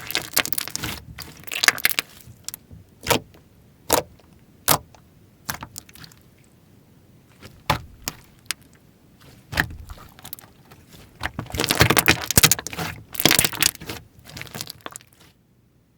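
Slime being pressed, stretched and poked by hand: scattered sharp clicks and pops, with a dense run of crackling about twelve seconds in, stopping abruptly shortly before the end.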